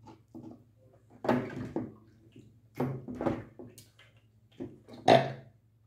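Close-up eating sounds: wet chewing and mouth smacks in several short bursts, the loudest about five seconds in, over a low steady hum.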